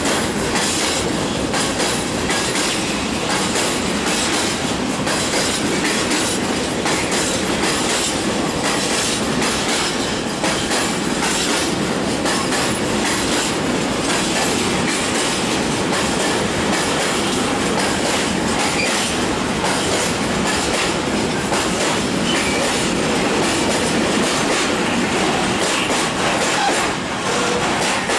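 Loaded freight wagons rolling past at close range: a steady, loud rumble of steel wheels on rail with constant rapid clacking over the rail joints.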